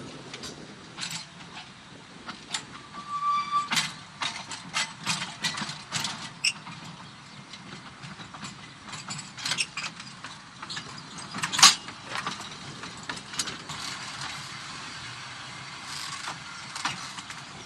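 Narrow-gauge electric tram running, with irregular clicks and knocks over a low rumble. A short pitched tone sounds about three seconds in, and there is a sharper knock past the middle.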